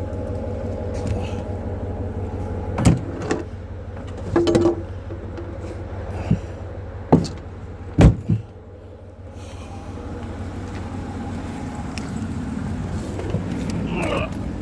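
A vehicle engine idling steadily, with a string of sharp knocks and clunks over it, the loudest about eight seconds in.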